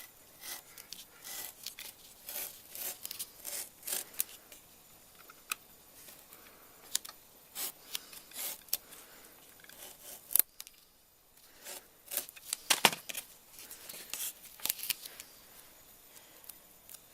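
Utility knife blade slicing and scraping through sandpaper along the edge of a steel tape-measure strip: many short, sharp rasping strokes in uneven bursts, with a sharp click about ten seconds in. The blade is getting dull.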